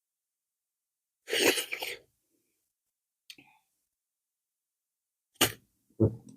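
Close-miked eating sounds: a loud, noisy mouth sound lasting under a second about a second in, then a sharp click and a soft thump near the end.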